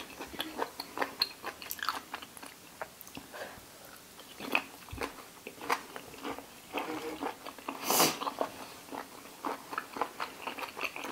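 Close-up chewing and crunching of boiled pig's ear, the cartilage crackling in irregular bites, with one louder crunch about eight seconds in.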